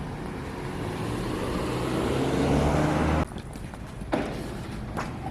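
A motor vehicle engine running and growing steadily louder, then cut off suddenly about three seconds in. A few light clicks follow over quieter background noise.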